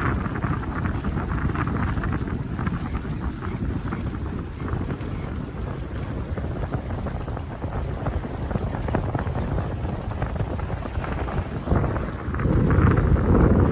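Wind buffeting the microphone aboard an S2 7.9 sailboat under sail, with water splashing along the hull. The wind rumble grows louder near the end.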